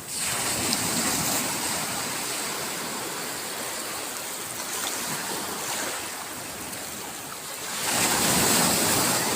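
Sea waves washing onto the shore in a steady rush, growing louder about eight seconds in as a bigger wave comes in.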